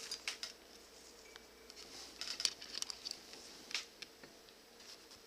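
Hand-sewing a leather mitt cuff: scattered soft clicks and short rustles as the needle and thread are worked through the leather.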